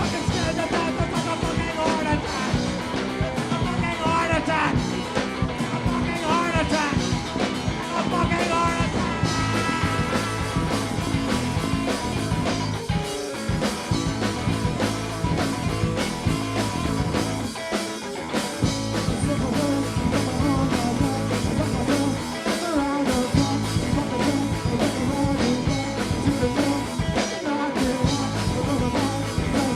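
Live rock band playing a loud, steady instrumental passage of psychedelic-leaning rock.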